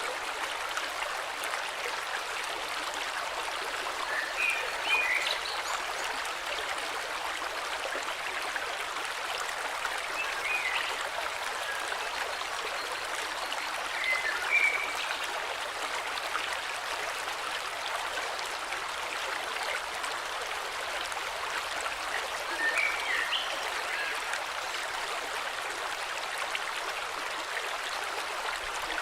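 Flowing river: a steady rush of running water, with short bird chirps breaking in four times.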